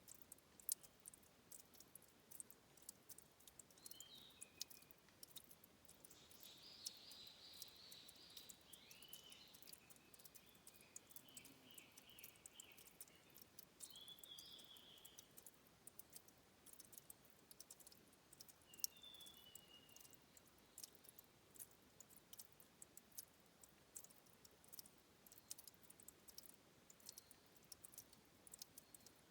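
Faint, irregular dripping and trickling of water at a spring where a stream rises, heard as many small sharp ticks. A few short, high bird chirps come in clusters.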